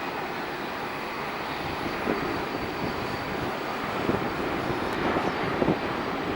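Jet airliner engine noise, a steady wide rush with a faint high whine, growing a little louder in the second half.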